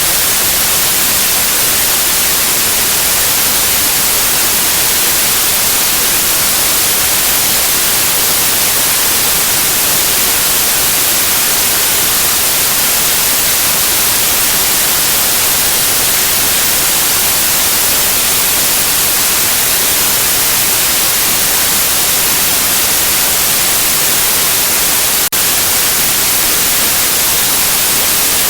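Steady white noise hiss, loud and even, strongest in the high frequencies. It dips for a split second about 25 seconds in.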